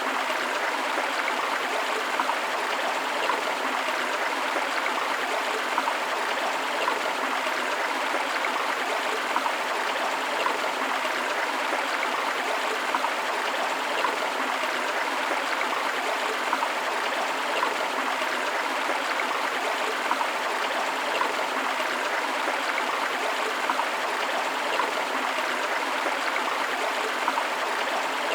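Steady rushing and splashing of a forest river or stream with a small waterfall, even throughout with little flickers of splashes, and no deep rumble.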